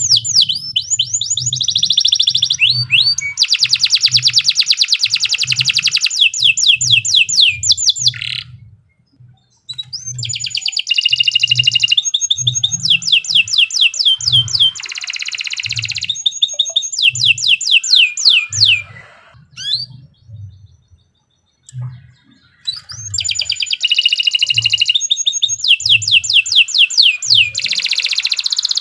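Domestic canary singing long, fast, high-pitched trills and rolling phrases, with short breaks about nine seconds in and again around twenty seconds in. A low, regular thump, about one and a half a second, runs underneath.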